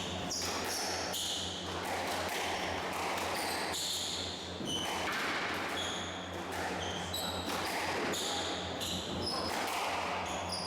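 Squash rally: the ball struck by rackets and smacking off the court walls in quick, irregular succession, with short high shoe squeaks on the court floor. A steady low hum runs underneath.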